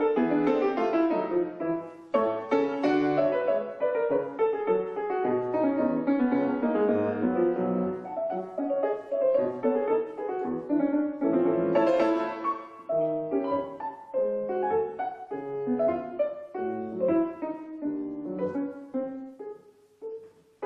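Solo classical piano played live on an 1864 Julius Blüthner piano: a slow, chordal passage of sustained, overlapping notes. The phrase dies away almost to silence just before the end.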